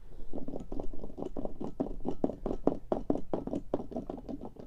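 Rapid, irregular clicking and tapping of small hard objects being handled on a desk, about six to eight taps a second.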